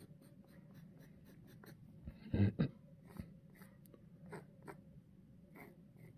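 A pen scratching short strokes on the end grain of a wooden stump, drawing around a deer skull laid on it. One brief, louder sound comes about two and a half seconds in.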